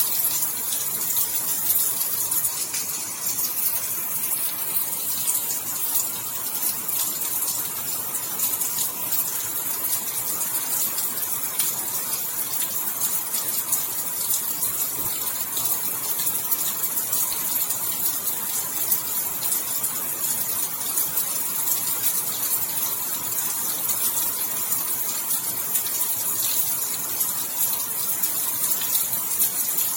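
Steady heavy rain falling, a continuous hiss with many fine patters of drops.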